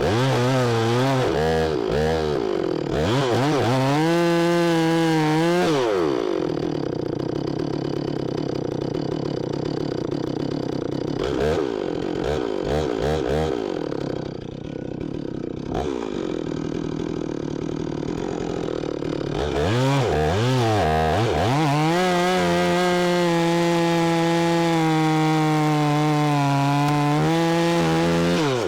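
Stihl MS 460 two-stroke chainsaw with a 25-inch bar, revved in quick blips, then running lower and rougher for a stretch, as if working in wood, before it climbs back and holds steady at high revs near the end.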